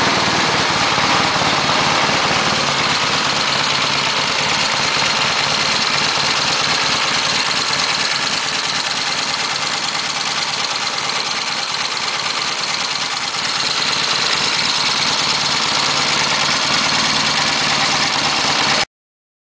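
1972 Triumph Bonneville T120V's 650 cc parallel-twin engine, freshly rebuilt, running steadily. The sound cuts off abruptly near the end.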